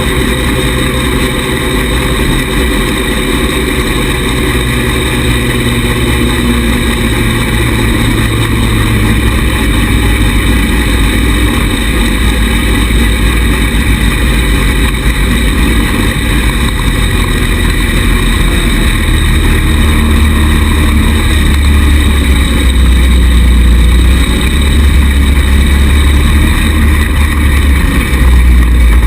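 Small 110cc buggy engine running as it is driven, steady throughout and growing gradually louder over the second half.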